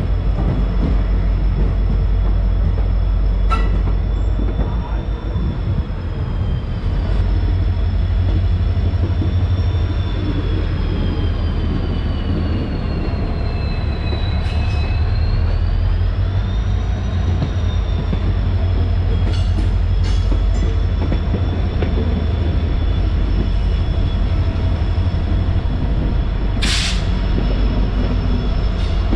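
Passenger train running, heard from on board: a steady heavy rumble with a high whine that falls in pitch about halfway through and rises again. A few sharp clicks and a short hiss near the end.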